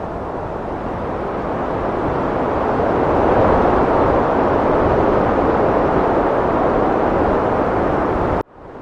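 Heavy wind blowing, a steady rushing that swells to a strong gust about three seconds in, then cuts out abruptly for a moment near the end.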